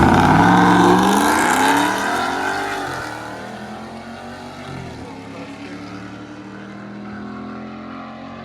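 Street-racing cars accelerating hard away from a launch, their engines revving up through several gear changes and fading with distance over the first three seconds. After that a quieter steady engine sound from nearby cars is left.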